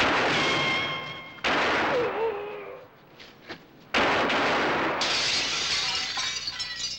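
Three sudden, loud crashes of noise, each breaking in abruptly; the second fades away and the third is drawn out for several seconds.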